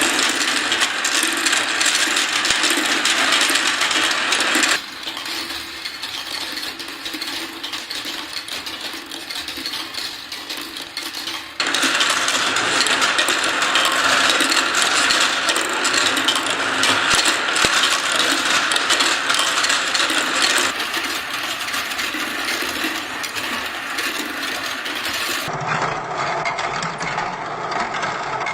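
Dense, fast rattling and clicking of balls running along a plastic marble run track. The level and character change abruptly several times: quieter about 5 s in, louder again near 12 s, easing around 21 s and changing once more near 26 s.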